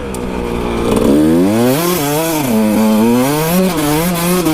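Kawasaki KX 125 two-stroke single-cylinder dirt bike engine on the throttle, its pitch rising and falling repeatedly as the revs go up and down.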